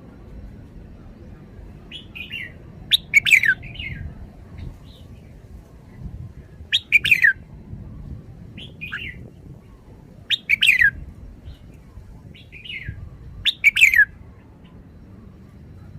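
Red-whiskered bulbul singing short phrases of quick, falling whistled notes, repeated about every three to four seconds, with softer single notes in between.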